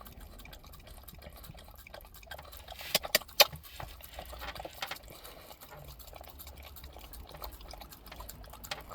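Dog licking and lapping at sour cream, a run of small wet clicking sounds, with two sharp clicks about three seconds in.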